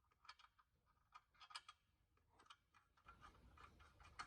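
Faint, scattered light clicks and ticks of a small metal oil drain plug and its new crush washer being handled and fitted. A low rumble joins about three seconds in.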